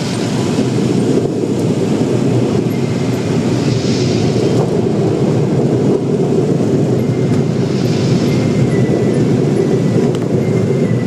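Automatic car wash working over the car, heard from inside the cabin: a loud, steady, dense rumble, with a brighter hiss swelling about four seconds in and again about eight seconds in.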